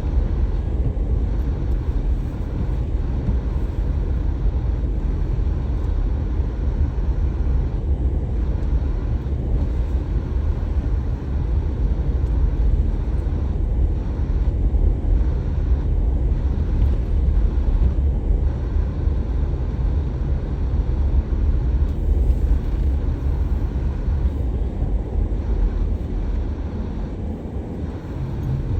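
Steady low rumble of a car driving, engine and tyre noise running continuously.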